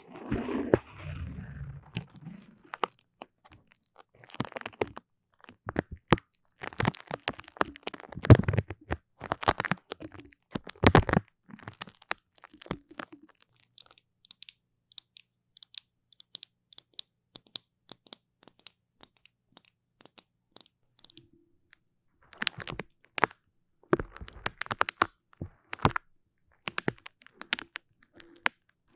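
Something sticky being pressed and peeled apart, giving clusters of sharp crackling clicks, with a sparser, quieter stretch in the middle.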